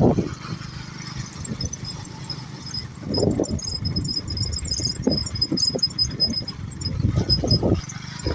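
Wind and road noise rumbling in uneven gusts on the microphone of a moving vehicle, with scattered short high chirps over it.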